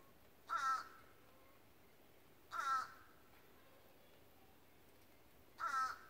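A bird gives three loud, harsh calls, each about a third of a second long, roughly two to three seconds apart.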